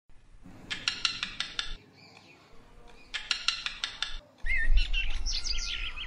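A bird calls in two bursts of about seven quick notes each, a second and a half apart. Near the end come varied, twisting chirps and whistles over a low rumble on the microphone.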